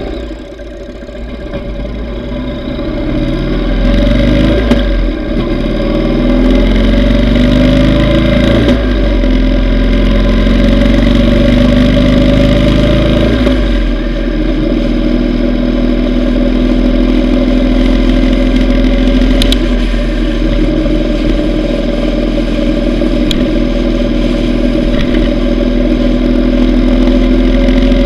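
Yamaha V Star 950's V-twin engine accelerating through the gears, its pitch rising and dropping back with each shift. About halfway through it settles into a steady cruise.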